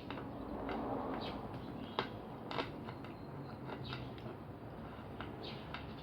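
Close-miked chewing and mouth sounds of a person eating fried food, with irregular sharp clicks scattered through the chewing.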